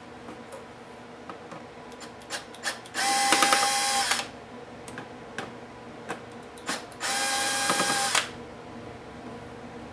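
Electric screwdriver running in two short bursts of about a second each, backing out laptop case screws, with small clicks of handling screws and plastic parts between them.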